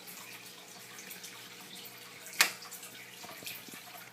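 Hunter Installers Choice 52-inch ceiling fan coasting after being switched off off high speed, its blades giving a steady whoosh of moving air, with one sharp click about two and a half seconds in.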